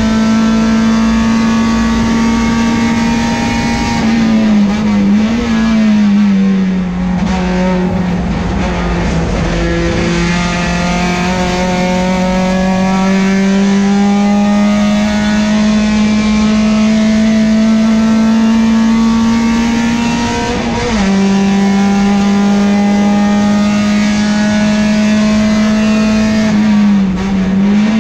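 Peugeot 405 STi race car's engine at high revs, heard from inside the cabin. The revs dip and sag about four seconds in, climb slowly for many seconds, then drop suddenly about 21 seconds in as it shifts up, with another brief dip near the end.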